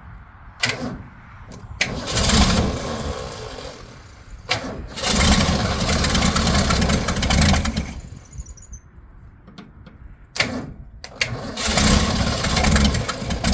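1965 Ford Mustang engine being cranked in three start attempts, each starting with a sharp click and running loudly for a few seconds before stopping. The engine is hard to start and running rough after being flooded.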